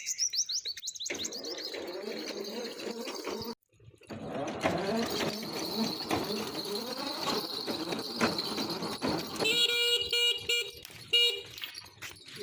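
A busy, noisy mix that opens with a run of quick falling chirps. From about two-thirds of the way through, a horn honks in several short blasts.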